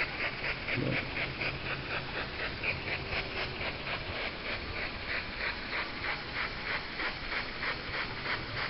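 Two-cylinder brass marine live steam engine running slowly, its exhaust chuffing evenly at about four beats a second.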